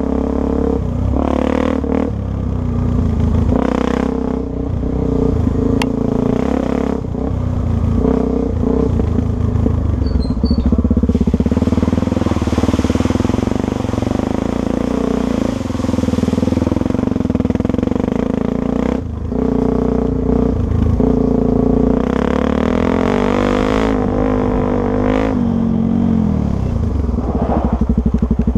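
Trail motorcycle engine running and being revved, its pitch rising and falling with the throttle. It drops briefly a few times, once about two-thirds of the way in, and climbs again near the end.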